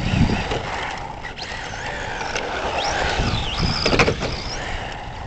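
Tamiya TT-01E radio-controlled truck driving over bumpy ground: its electric motor and gears whine, rising and falling in pitch with the throttle, over a low rumble with a few knocks.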